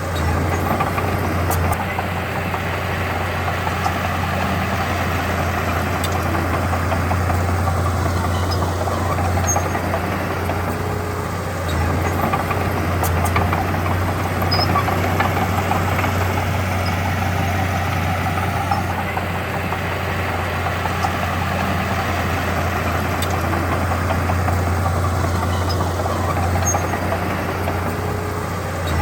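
Diesel engine of heavy earthmoving equipment running steadily with a deep drone, its level shifting only slightly about twelve seconds in.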